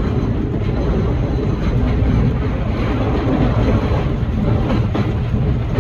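Excursion train running: a steady rumble of wheels on track with faint irregular clatter, heard from aboard the cars.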